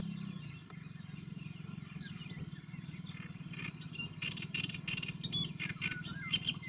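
Birds chirping: a single rising chirp, then from about four seconds in a busier run of quick high chirps. A faint low steady hum sits underneath.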